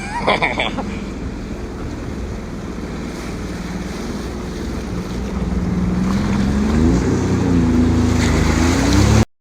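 Jet ski engine running on the water, with wind buffeting the microphone and water noise. The engine pitch rises and dips about seven seconds in, and the sound grows louder toward the end before cutting off suddenly.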